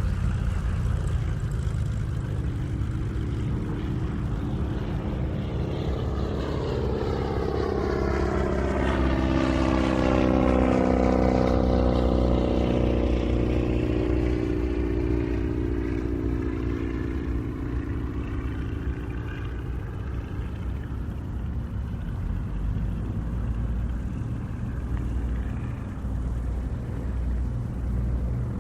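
Airplane flying past: its engine tone grows louder, is loudest about ten to twelve seconds in, then falls in pitch and fades as it moves away, over a steady low rumble.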